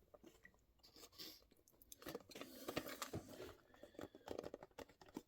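Faint, scattered small clicks and crinkles of hands handling plastic packaging, growing a little busier about two seconds in.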